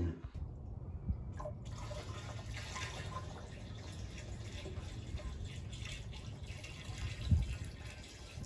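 Water sloshing and dripping in a bucket of collected rainwater being carried to a plastic water barrel, with one knock about seven seconds in.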